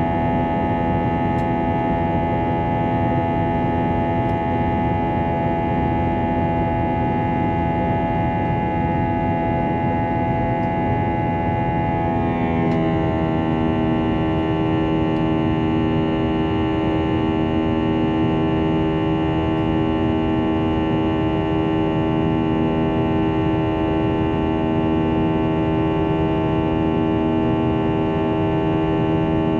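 Airbus A321-231's IAE V2500 turbofan engines heard inside the cabin, a steady drone with many fixed tones over a rushing noise. About twelve seconds in, the tones glide and settle at new pitches, as with a change of engine thrust.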